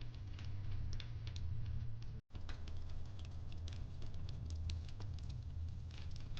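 Fireplace crackling: irregular small pops and snaps over a steady low rumble of burning logs, cutting out for an instant about two seconds in.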